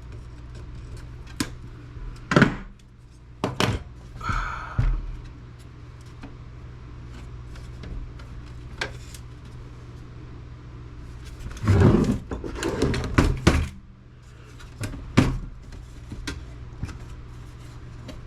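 Knocks, clicks and clatters of hand tools and parts while a desktop computer is being taken apart and its motherboard worked loose. There are scattered single knocks, a brief rattle about four seconds in, and a burst of clattering about twelve seconds in, over a steady low hum.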